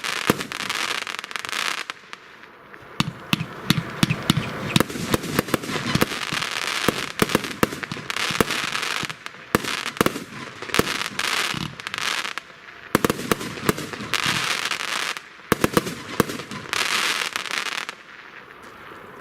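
A 100-shot, 30 mm consumer firework cake (Evolution Feuerwerk Snowstorm) firing: sharp shots and bursts in quick succession, with dense stretches of about a second between them. The shots thin out and go quiet near the end.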